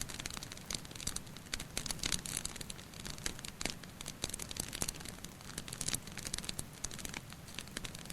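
Wood fire crackling with dense, irregular pops and snaps over a steady low rumble, mixed with dripping water.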